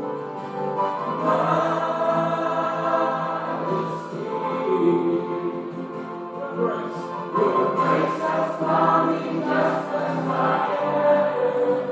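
Group of voices singing a slow hymn over sustained accompanying chords.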